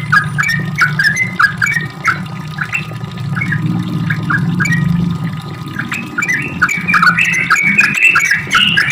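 Yellow-vented bulbul (trucukan) singing a long, rapid run of bubbly, chattering notes, busier and more continuous in the last few seconds, over a steady low hum.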